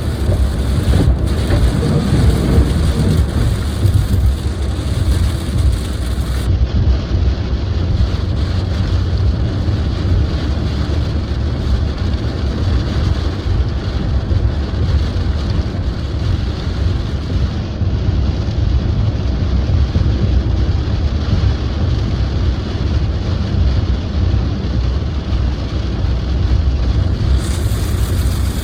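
Steady low rumble of a car driving on a wet road, heard from inside the cabin, with light rain on the car.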